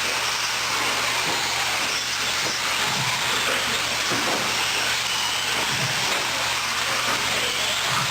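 A pack of 1/10 scale electric 4wd short course RC trucks racing on an indoor dirt track: a steady hiss of tyres and flung dirt, with a faint high whine of the electric motors rising and falling.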